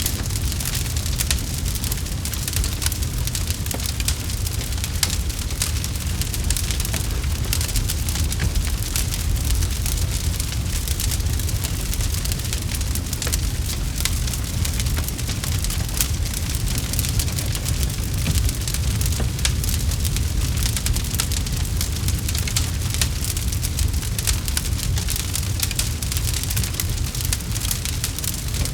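Campfire crackling: a dense run of small sharp pops and snaps over a steady low rumble of burning.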